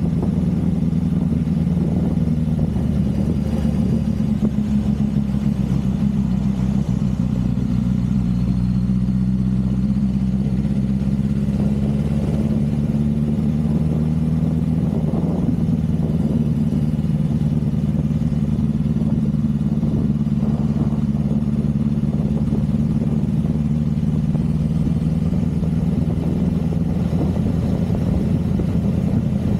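Motorcycle engine running steadily while riding, its pitch drifting a little down and back up.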